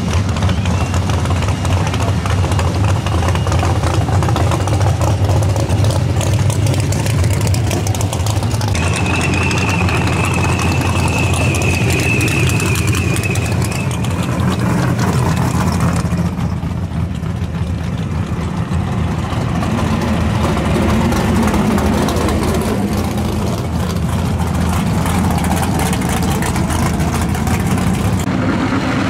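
Hot-rod drag car engines idling and rolling at low speed, a loud, deep, steady rumble. A high whine rides over it for a few seconds in the middle, and the engine sound changes abruptly a few times.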